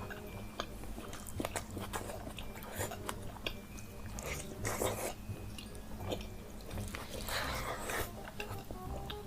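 Close-miked eating: biting and chewing food, with many small crunches and mouth clicks. There are louder crunching bursts about five seconds in and again around seven and a half seconds.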